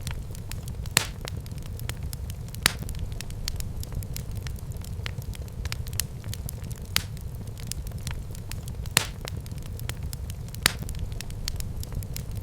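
Fire burning in a fireplace, crackling over a steady low rumble, with frequent small pops and a few louder, sharper snaps.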